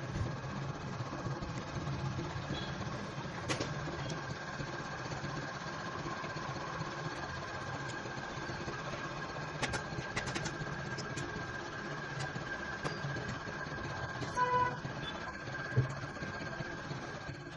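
Steady mechanical hum with a low drone and a constant high tone, with scattered sharp clicks and a brief pitched beep about fourteen seconds in.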